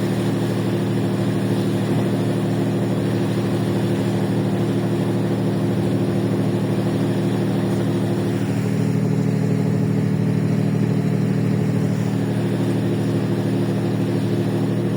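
Ferry's engines running, heard on board as a steady low hum of several tones over a wash of noise, with a slight shift in the tone about eight seconds in.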